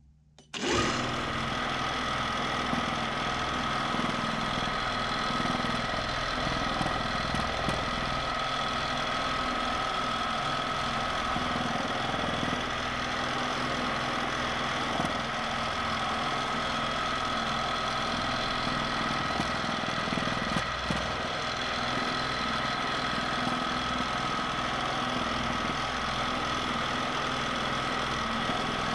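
Q'nique 19 longarm quilting machine starting up and running steadily in constant (manual) mode, stitching at an even speed with a steady hum and high whine.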